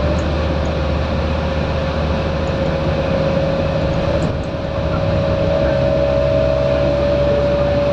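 Scania K230UB bus with its five-cylinder diesel running under way, a low rumble under a steady whine that climbs slightly in pitch in the second half as the bus gathers speed. The sound dips briefly just after four seconds in.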